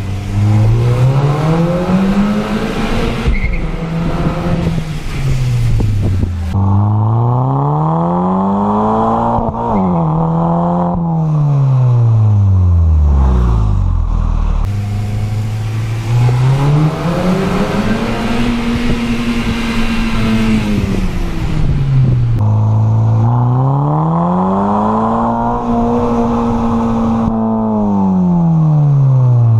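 Volkswagen Golf GTI Mk5's turbocharged 2.0-litre four-cylinder through a resonator-deleted exhaust, revved up and let fall back about four times, the pitch climbing, holding briefly and dropping each time.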